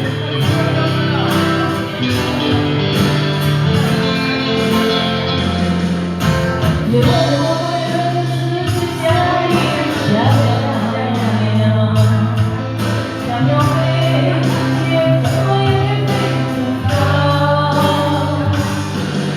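A live pop band playing with a steady beat and held bass notes while a singer sings the melody.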